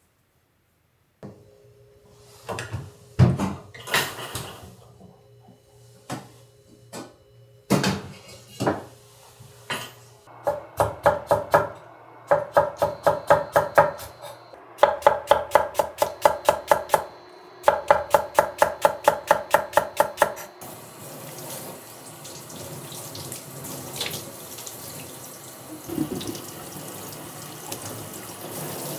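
Kitchen work: scattered knocks and clatters, then three runs of quick, evenly spaced knife chops on a cutting board. From about twenty seconds in, a tap runs steadily into a sink.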